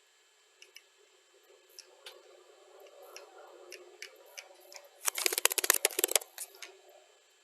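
Computer keyboard typing, sped up to double speed: scattered single key clicks, then a fast run of keystrokes about five seconds in that lasts about a second.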